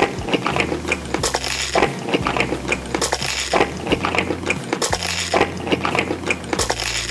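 Cutlery clicking and clinking against a dish in quick, irregular taps, as someone eats.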